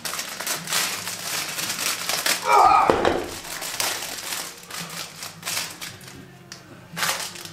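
Irregular rustling, crinkling and small clicks of hands rummaging through packaging and small door-fitting parts, with a brief voice-like sound about three seconds in.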